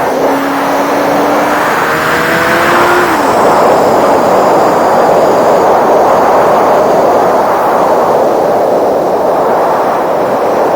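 Sport bike engine revving up, its pitch rising for about three seconds, then fading under loud, steady wind noise on the microphone at riding speed.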